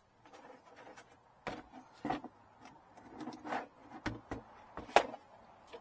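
Irregular knocks, clicks and rubbing from objects being handled and set in place, the loudest a sharp knock about five seconds in.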